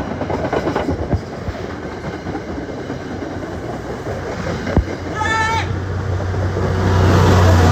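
MBTA commuter train passing close by: a steady rumble of rolling cars with a few sharp wheel clicks over the rail joints. A diesel locomotive's engine drone swells to its loudest over the last couple of seconds. A brief high-pitched shout comes about five seconds in.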